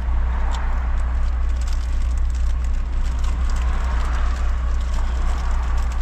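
Steady low rumble of a car heard from inside the cabin, with a faint hiss of street noise and a few light clicks.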